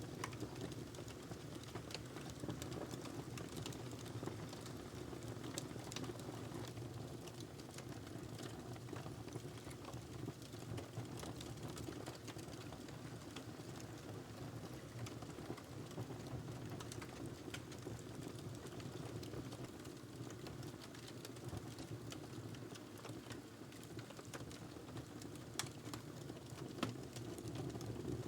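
Log fire burning in a fireplace: irregular small crackles and pops over a steady low rumble of the flames, with two sharper pops near the end.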